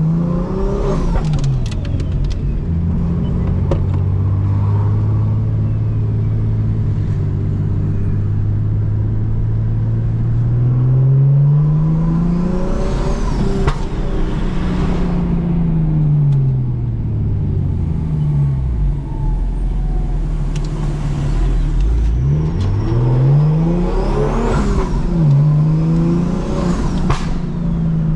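Single-turbo BMW M2 Competition straight-six with a straight-through titanium exhaust, driven through a manual gearbox. It holds steady revs for about ten seconds, then climbs to a peak and falls away as the car lifts off. Near the end it pulls up through the revs twice more, the pitch dropping after each rise.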